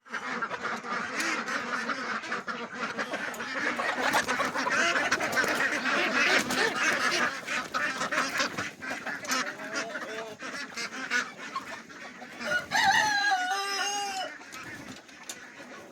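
Backyard poultry flock calling together: many overlapping clucks and squawks, with one louder drawn-out call about thirteen seconds in.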